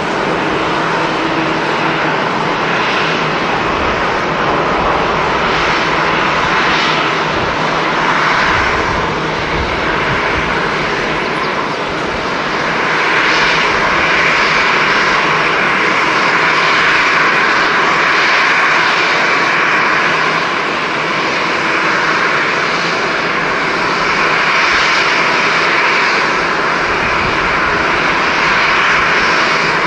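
Jet airliner engines running, a steady, dense whooshing noise that grows louder partway through.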